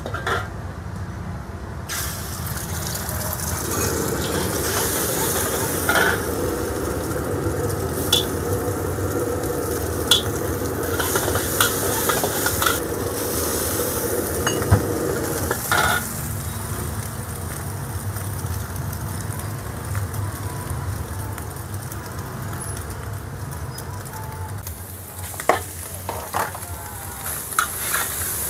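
Eggs, then rice, frying and sizzling in a heavy steel wok over a gas flame. A long metal spatula scrapes and knocks against the wok as it stirs. The sizzling picks up about two seconds in, and the spatula clicks come at scattered intervals.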